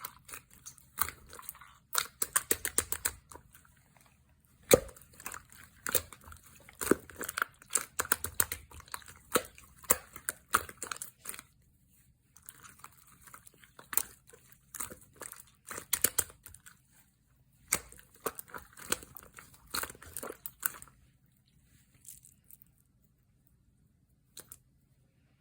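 Clear slime being squeezed and worked by hand, giving rapid runs of small wet clicks and pops. The pops thin out to a few scattered ones after about twenty seconds.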